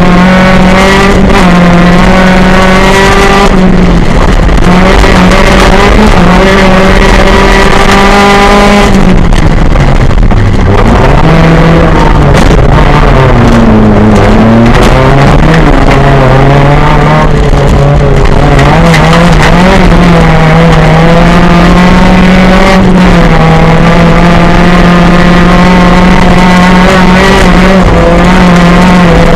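Autocross car's engine, from the up-to-1600 cc class, running loud at high revs, heard from inside the cabin. The revs hold steady for long stretches, and twice in the middle they drop sharply and climb back.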